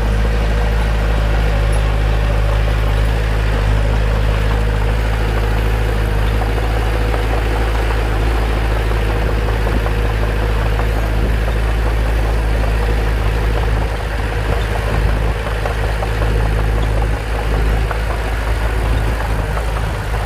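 Bulldozer's diesel engine running steadily, a deep even drone; about fourteen seconds in it drops a little and turns rougher and less even.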